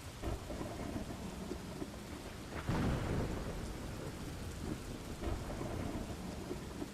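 Steady rain with rumbles of thunder; the loudest, a peal lasting about a second, comes about two and a half seconds in, with softer rumbles near the start and near the end.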